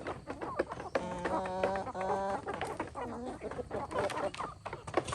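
Chickens clucking, with two drawn-out, steady-pitched calls about a second in and many short clicks throughout.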